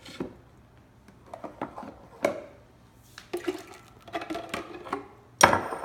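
Grape juice and lemon juice being mixed: liquid pouring and sloshing with scattered clinks of the containers, and a louder clatter near the end.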